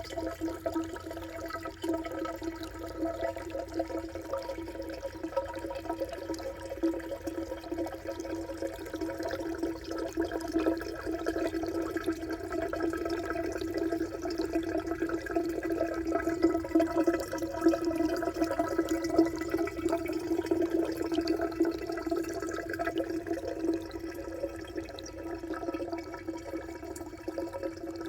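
Pool water rushing and gurgling into the empty tube of a pool waterfall feature, giving a continuous hollow, resonant hum under the flickering splash noise. It swells somewhat louder toward the middle and eases a little near the end.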